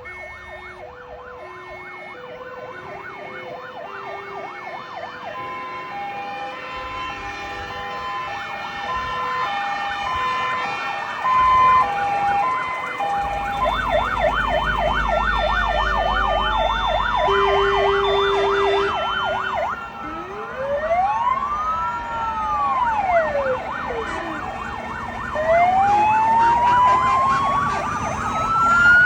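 Several fire engine sirens sounding at once: two-note hi-lo sirens alternating steadily, joined by fast yelping sirens, then slow rising and falling wails in the second half. The whole chorus grows louder as the vehicles come closer.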